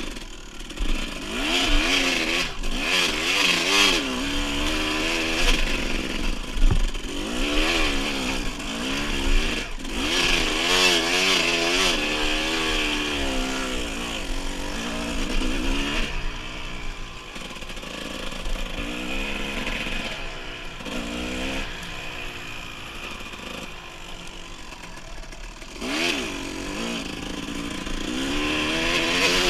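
Dirt bike engine revving, its pitch rising and falling over and over with the throttle and gear changes. The revving is hardest in the first half, runs steadier and quieter for a while, then picks up again near the end.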